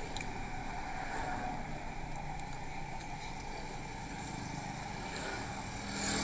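Steady room noise through the hall's sound system, a low hiss and hum with a few faint scattered clicks, swelling slightly near the end.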